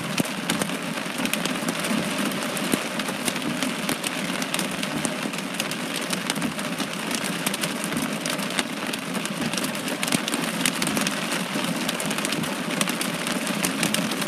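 Heavy rain pelting a vehicle: a steady hiss dense with sharp clicks of individual drops striking.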